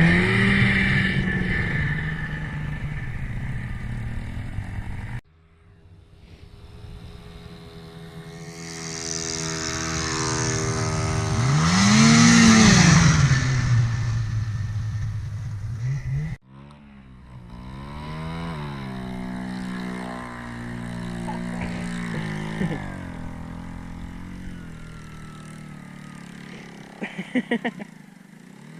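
Small off-road vehicle engine revving up and down, its pitch rising and falling, loudest as it speeds up and drops back about twelve seconds in. The sound cuts off abruptly twice, and a short run of clicks comes near the end.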